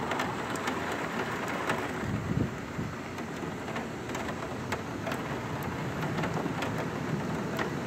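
Heavy thunderstorm rain falling steadily, with many small sharp ticks of drops striking close by.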